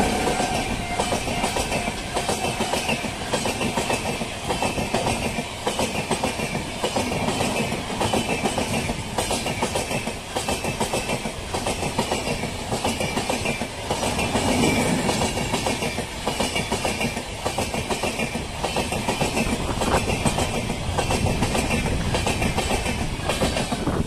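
Indian Railways express passenger train passing at speed, its coach wheels clattering in a steady rhythm over the rail joints.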